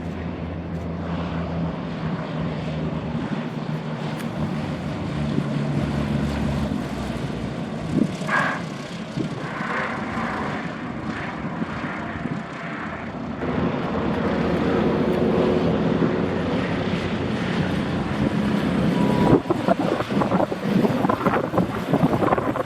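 Propeller airplane engine running steadily, its hum shifting in pitch as it goes. From about 19 seconds in, wind buffets the microphone.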